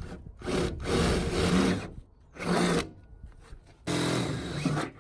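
Power drill drilling holes through a fiberglass overfender, in several short bursts with pauses between.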